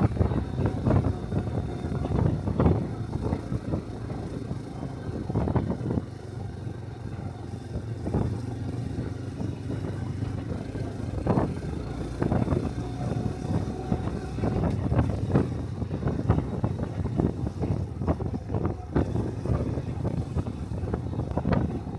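Exhaust and engine of a small 125 cc single-cylinder Honda Cub motorcycle running on the move, with irregular wind buffeting on the microphone.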